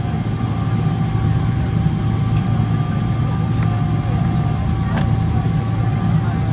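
Boeing 777-300ER's GE90-115B engines at taxi thrust, heard inside the passenger cabin: a steady low rumble with two steady whining tones over it. A couple of faint clicks come about two and five seconds in.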